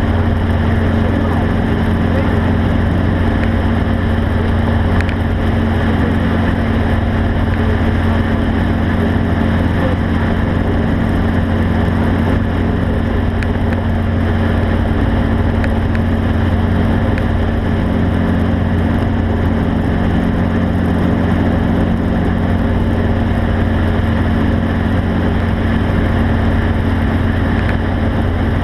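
Steady engine drone, a constant low hum that does not change in pitch or level.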